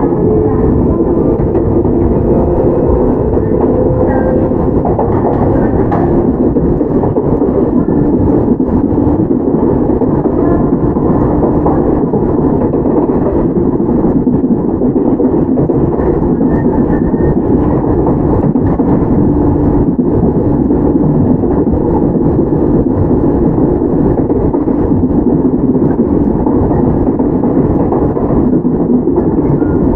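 Toyama Chiho Railway 17480 series field-chopper electric train running, heard from inside the car: a steady rumble of wheels on rail with the hum of the traction motors.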